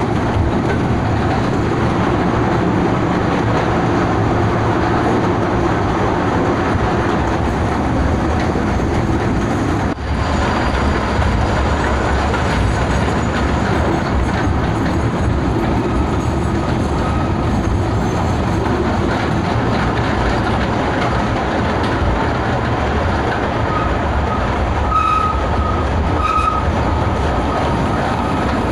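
Kurobe Gorge Railway narrow-gauge train running, heard from inside its open-sided carriage: a steady loud rumble of wheels on rail, with two short high squeals near the end.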